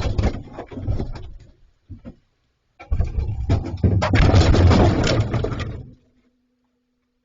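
Knocks and scraping on a steel fridge as bears paw and push at it, in two spells, the second longer and louder, stopping abruptly about six seconds in.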